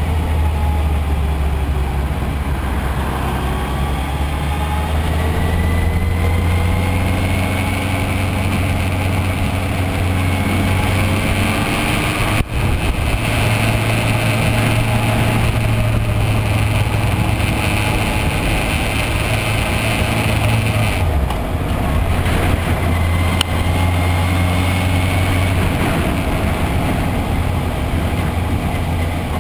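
Yamaha FZS600 Fazer's inline-four engine running on the road, its pitch climbing slowly several times as it pulls through the gears, with a brief break about 12 seconds in and another change about 21 seconds in. A steady low rumble lies under it throughout.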